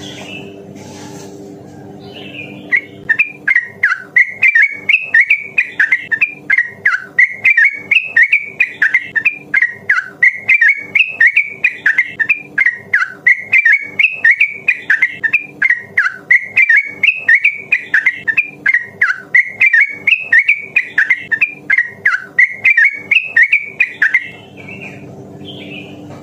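Yellow-vented bulbul (trucukan) singing a long, rapid, unbroken run of bubbling warbled notes, several a second, the fast continuous 'ropel' song. It starts about two seconds in and stops shortly before the end, over a faint steady low hum.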